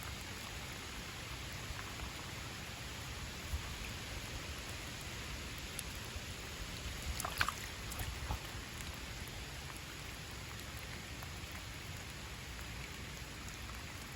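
Steady pouring rain, an even hiss, with a few brief sharp clicks and rustles about halfway through.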